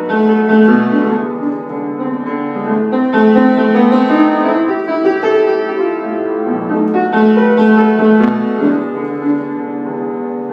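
Piano playing an instrumental passage of a song: held chords under a moving melody.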